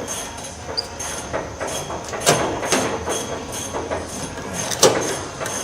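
A run of sharp knocks or taps, about two or three a second and uneven in strength, over a faint steady high whine.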